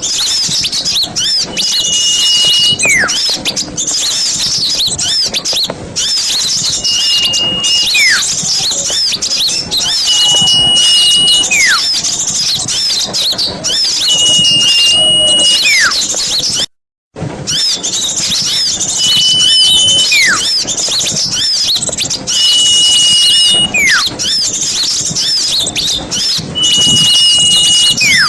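Bird-lure recording of many small birds chirping rapidly and densely. About every three seconds a clear whistled note is held steady, then drops sharply in pitch. The sound cuts out for a moment about seventeen seconds in.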